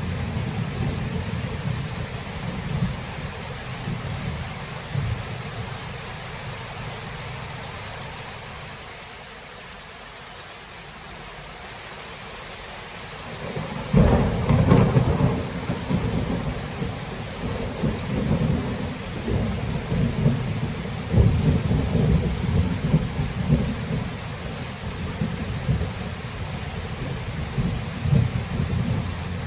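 Thunderstorm: steady rain hissing throughout, with low thunder rumbling that dies away, then a sudden loud crack of thunder about halfway through that rolls on as a long, uneven rumble.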